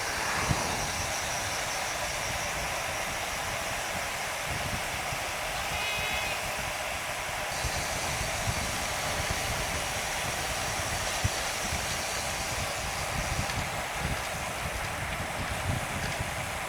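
Wind buffeting the microphone over the hiss of a road bike riding at speed: a steady rushing noise with irregular low rumbling.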